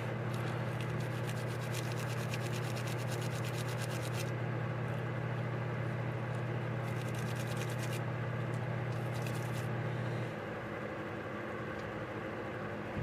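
Small carburetor parts being scrubbed clean in parts cleaner, with spells of fine scratchy scrubbing, the longest in the first four seconds and shorter ones later. A steady low hum under it stops about ten seconds in.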